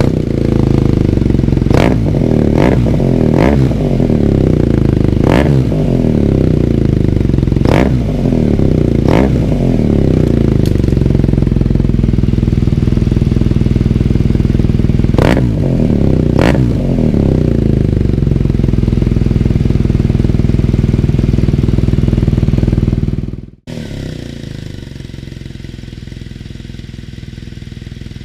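BMW R1200R LC boxer twin idling through a Cobra Powershot exhaust with its dB killer removed, the deep 'grave' unbaffled note of an open pipe. It is blipped about eight times in quick, short revs over the first two-thirds, then idles on. Near the end the sound drops suddenly to a quieter, steady idle.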